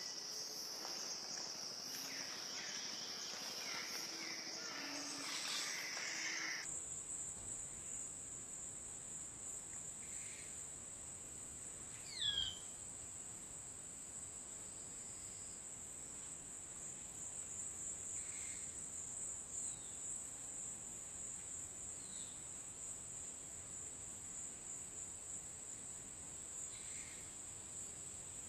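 Steady high-pitched drone of insects that jumps abruptly to a higher pitch about six seconds in, with scattered faint bird chirps and one louder, downward-sweeping bird call about twelve seconds in.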